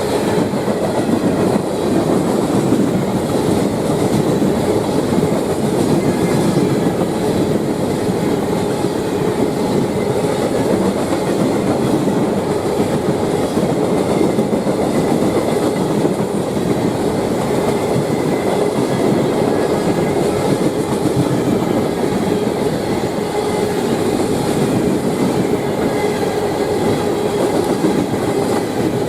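Freight train cars rolling past, steel wheels clattering steadily over the rail joints, with a faint thin ring from the wheels.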